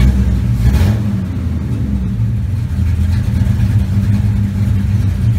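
1970 Chevelle's engine, started a moment before, idling steadily, heard from inside the car's cabin.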